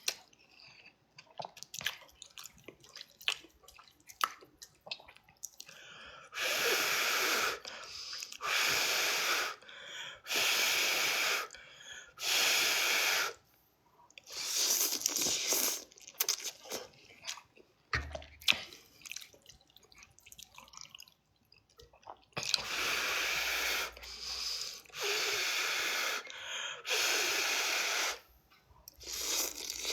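A person blowing out long breaths, each about a second, in a run of four to five puffs, then a pause of several seconds, then three more: blowing to cool hot noodles.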